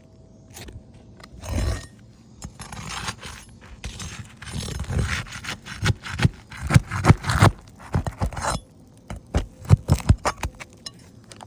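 Asphalt roof shingles being pried up and their nails worked loose: irregular scraping and crackling of the shingles, with a run of sharp knocks near the end.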